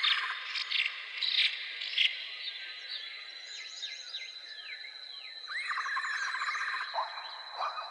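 Outdoor natural chorus: birds calling in many short, quick downward-sweeping chirps and fast trills, over a steady high-pitched insect drone. The trills come loudest at the start and again about two-thirds of the way through.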